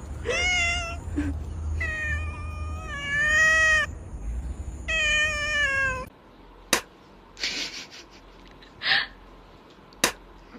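A cat meowing: three long, drawn-out meows, the middle one about two seconds long, over a low hum. About six seconds in the sound drops away suddenly, leaving a quiet stretch with a few sharp clicks.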